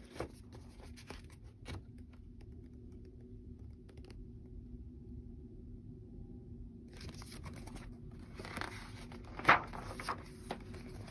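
Soft rustling and crinkling handling noise with scattered light clicks. It thickens after about seven seconds, with one louder scrape about nine and a half seconds in.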